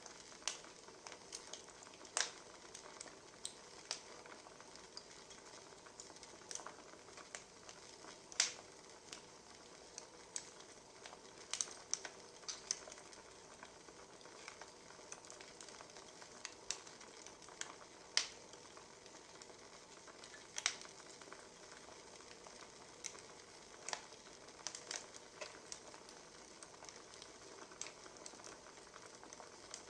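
Wood fire crackling: a soft steady hiss broken by irregular sharp pops and snaps of burning logs.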